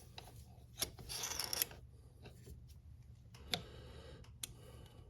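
Faint handling noises while the motorcycle's drive chain slack is measured: a few light clicks and a short scrape as the chain is pushed and lifted, over a low steady hum.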